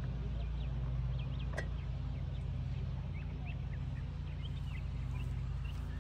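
Birds chirping in short, scattered calls over a steady low hum, with one sharp click about a second and a half in.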